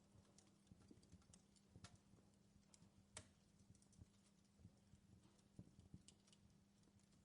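Faint crackling of a wood fire in a fireplace: irregular small pops and snaps, with one sharper crack about three seconds in, over a faint steady hum.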